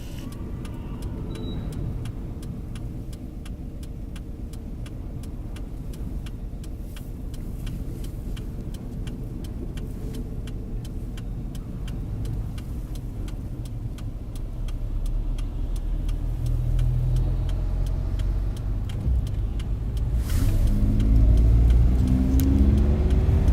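Strong wind gusting against the microphone, a low rumble that builds and grows louder over the last several seconds, with many small ticks and rattles throughout.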